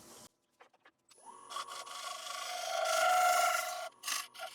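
Wood lathe running with a steady whine, with a scraping rub against the spinning damson bowl that grows louder, then cuts off abruptly about four seconds in.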